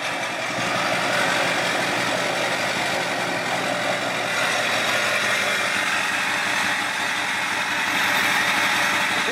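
LBZ Duramax 6.6-litre V8 turbo diesel idling steadily through a freshly fitted 5-inch straight-pipe exhaust with no muffler, on its first start after the install.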